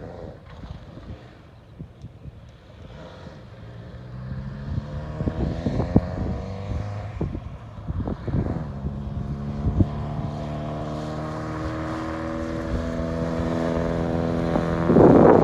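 Car engine pulling up through the revs, then holding a steady note, with a few sharp knocks along the way and a loud rush of noise at the very end.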